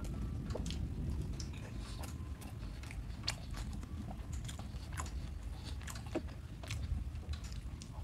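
Close-up chewing and biting of a crumb-fried fish roll, with many small crisp crunches and crackles of the breadcrumb coating.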